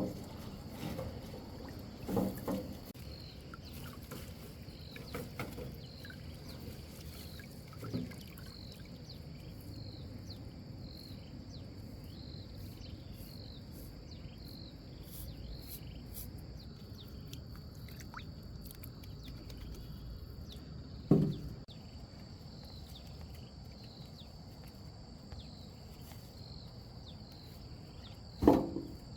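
A small boat on the water with a few sudden knocks and splashes, the loudest about two-thirds of the way in and near the end. Steady high insect chirring repeats evenly throughout.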